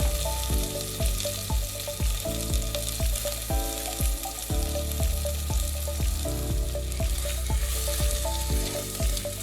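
Chopped onions sizzling as they fry in ghee, over background music with a steady beat.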